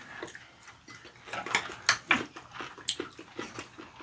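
Close-up eating sounds: chewing and wet lip-smacking, a string of short smacks and clicks.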